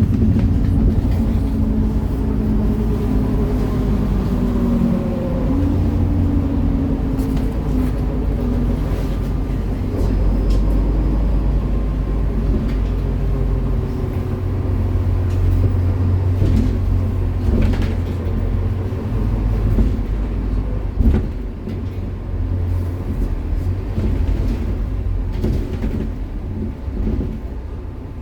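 MAN Lion's City NL293 city bus, its diesel engine running steadily as the bus drives. The engine note rises in pitch a few seconds in and then eases off and builds again, with a few short knocks and rattles later on.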